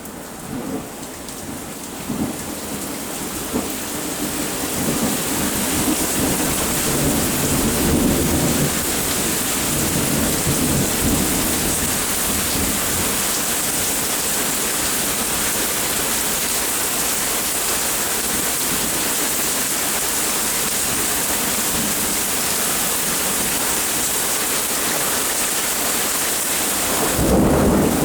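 Rain falling steadily during a thunderstorm, building in loudness over the first few seconds. Thunder rumbles low through the middle, and another rumble of thunder starts near the end.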